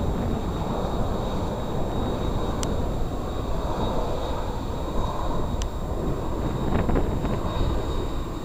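Jet airliner engines giving a steady rumble with a thin high whine, mixed with wind on the microphone. Two faint sharp clicks come about three seconds apart.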